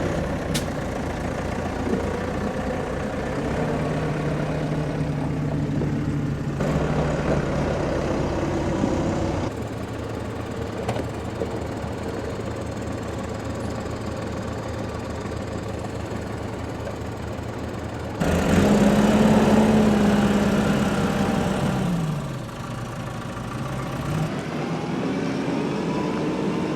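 Vehicle engine running, its pitch rising and falling as the engine speed changes, with several sudden jumps where the sound changes abruptly.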